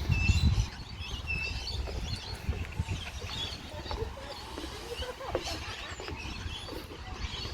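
Birds chirping, many short scattered calls, with a brief low rumble at the very start.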